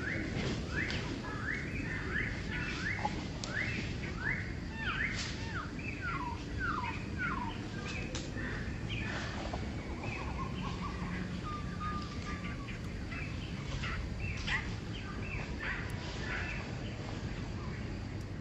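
Birds calling: a quick run of short, down-slurred chirps, two or three a second, for the first several seconds, then scattered chirps and a brief whistle, over steady low background noise.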